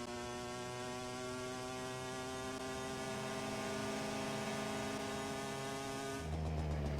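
Motorcycle engine running under way, its tone slowly rising in pitch as it speeds up. About six seconds in, the sound changes to a louder, deeper rumble.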